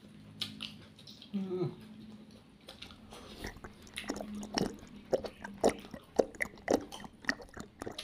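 Close-up open-mouthed chewing and lip smacking on roast chicken, in wet, irregular clicks that come thickest in the second half.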